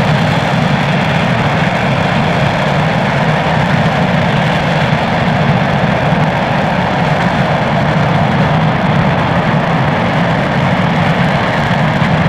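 RS-25 liquid-hydrogen/liquid-oxygen rocket engine firing on a test stand during a full-duration hot fire: a loud, steady, unchanging rush of exhaust noise.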